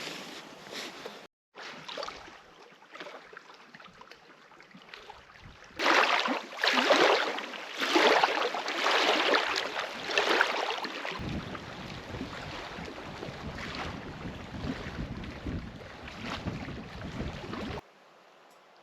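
Wind gusting over a lake with waves washing in, coming and going in swells. From about eleven seconds in, wind also buffets the microphone with a low rumble.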